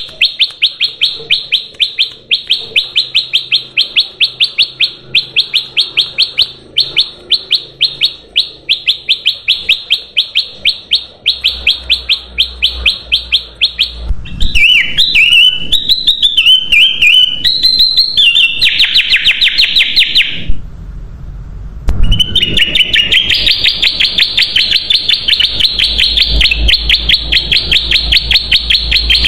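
Kutilang emas bulbul calling, a recording used as a bird lure. It gives fast, evenly repeated high chirps, about five a second, then a varied warbling phrase and dense chattering. After a short pause about two-thirds of the way in, continuous rapid chattering resumes.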